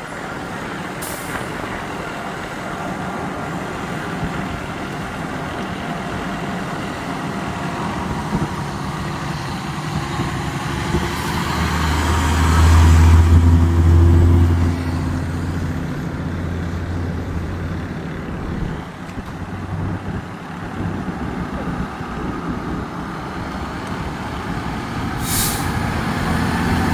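Heavy diesel fire trucks pulling away, their engines loudest for a few seconds midway as one passes close, with two brief air-brake hisses near the start and near the end.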